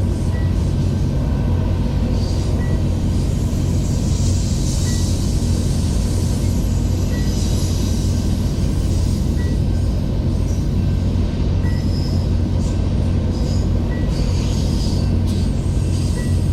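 BNSF freight train rolling past, its cars giving a steady low rumble, with brief high wheel squeals coming and going.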